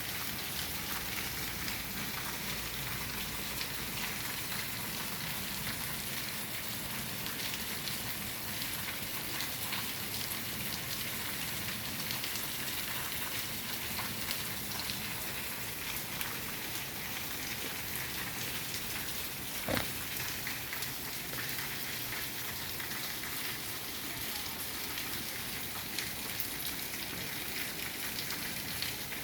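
Heavy rain pouring steadily, a dense hiss full of small drop ticks, with one sharp knock about twenty seconds in.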